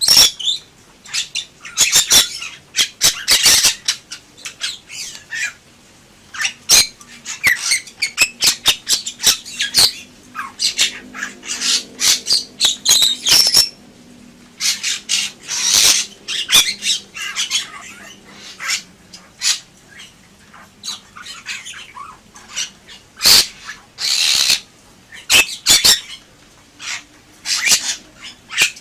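Bali myna singing: quick runs of short, high calls, with short pauses between phrases.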